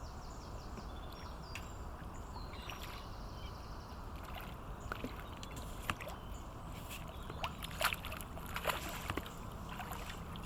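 Water splashing and sloshing as a large hooked ghost carp thrashes at the surface, with the splashes coming more often in the second half, over a steady low background rumble.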